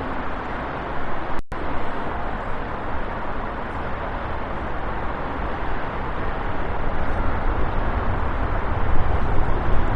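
Etihad Cargo Boeing 777 freighter's jet engines: a steady roar that grows louder toward the end, its low rumble strengthening. The sound cuts out completely for a moment about one and a half seconds in.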